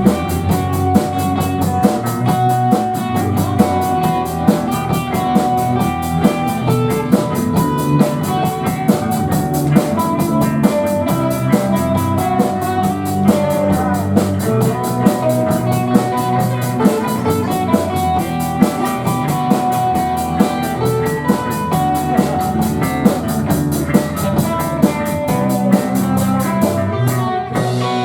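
Live band music with electric guitar over bass and a drum kit, the cymbals keeping a steady fast tick.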